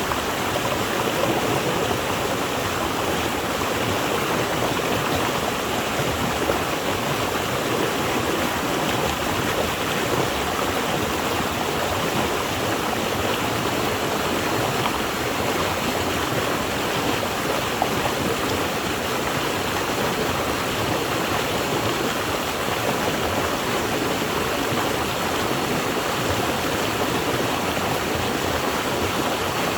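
Flowing water rushing steadily, an even, unbroken sound with no pauses.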